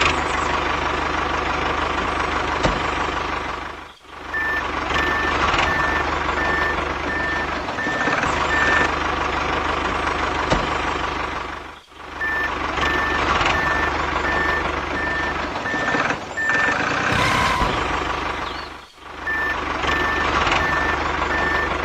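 A vehicle's reversing alarm beeping about twice a second over a steady engine running. The beeping comes in three spells, with the sound dropping out briefly between them.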